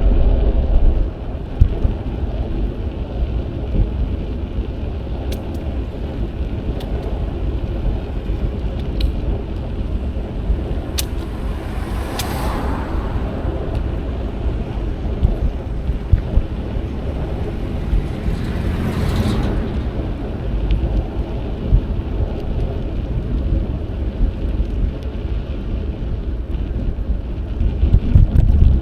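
Low rumble of wind on an action camera's microphone while riding a bicycle along a street, with traffic around it. Vehicles pass twice, swelling and fading about twelve and nineteen seconds in.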